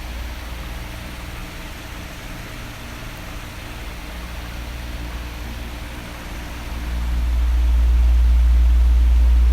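Electric fan running steadily, an even whooshing hiss from its blades with a faint motor hum beneath. About seven seconds in, a deep rumble swells up and stays loud.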